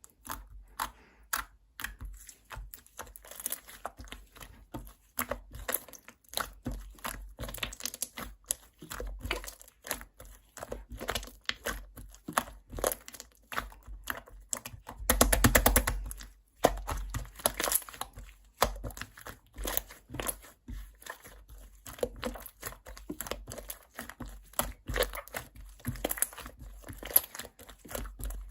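Thick, chewy slime being stretched, squeezed and poked by hand, giving rapid sticky clicks and crackling pops, with a louder burst of crackling about halfway through.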